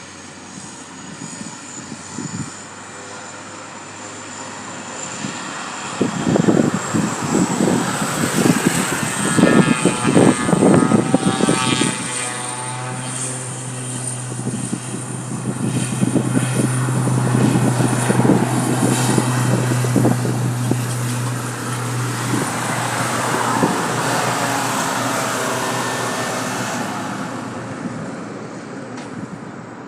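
Cessna 208B Grand Caravan EX turboprop at takeoff power: a steady high turbine whine that rises slightly in pitch over a propeller drone. It grows loud about six seconds in and fades near the end as the aircraft climbs away.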